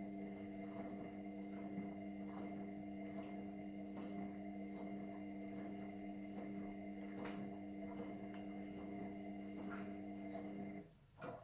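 Indesit washing machine running part of its cycle: a steady motor hum with light scattered clicks and knocks, starting abruptly and cutting off near the end, followed by a single click.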